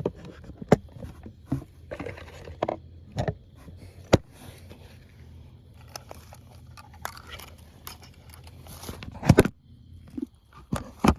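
Handling noise of a camera being carried and moved: irregular knocks and clicks, with scraping and crinkling rustle between them and a cluster of louder knocks near the end.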